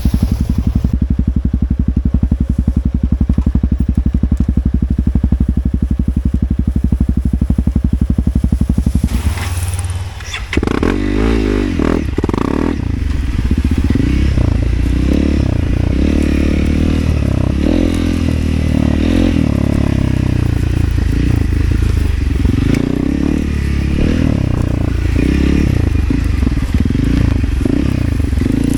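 Motorcycle engine idling with an even beat for about nine seconds, then pulling away and running under changing throttle, uneven and louder, with scattered knocks for the rest of the time.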